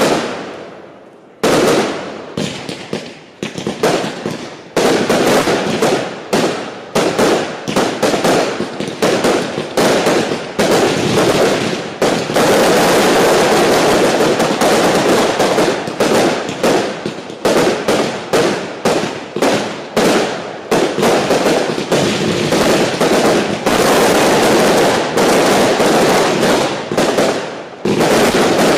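Category F2 fireworks firing in rapid volleys of sharp shots and bursting reports. About a second and a half in they start in earnest, and they merge into a nearly continuous barrage twice, in the middle and again near the end.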